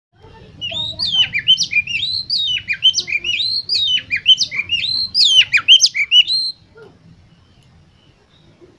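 Oriental magpie-robin singing a fast, varied run of whistled and sliding notes that stops suddenly about six and a half seconds in, over a faint low hum.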